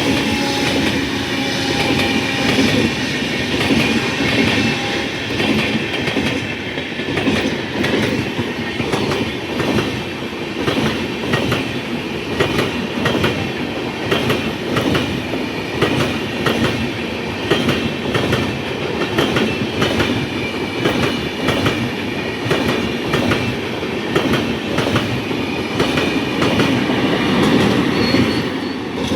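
An Indian Railways train running past at speed, its wheels clattering rapidly and evenly over the rail joints, with a thin high wheel-on-rail squeal ringing above it.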